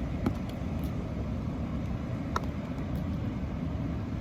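Steady low rumbling outdoor background noise, with two brief clicks.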